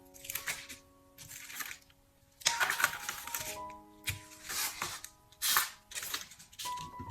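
Short, dry rustling and scratching bursts from sand-painting work with coloured sand, sticker paper, tweezers and a plastic spoon, about eight of them and loudest about two and a half seconds in. Soft background music with held notes plays underneath.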